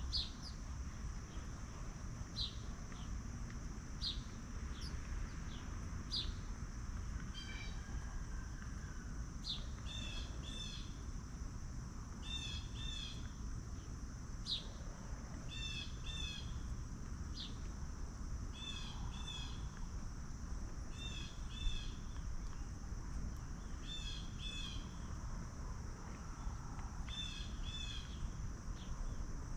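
Small wild birds calling again and again: a short high note about every two seconds and quick repeated twittering phrases. Behind them runs a steady high insect drone and a low outdoor rumble.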